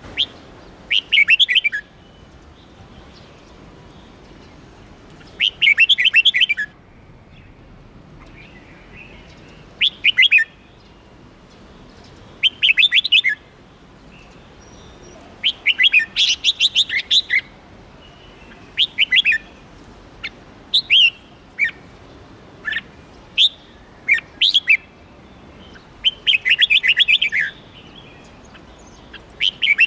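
Red-whiskered bulbul singing: short phrases of quick high chirping notes, repeated every few seconds.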